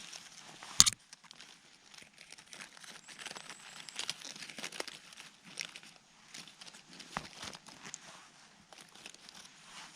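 Dry forest litter crackling and crunching in irregular clicks, with one sharp snap about a second in.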